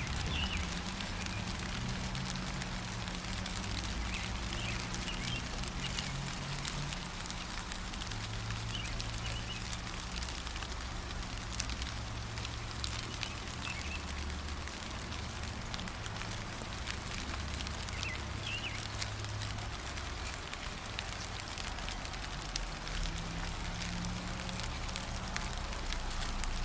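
Steady rain, with a constant hiss and many small drops pattering, over a low rumble. A bird gives short faint chirps now and then.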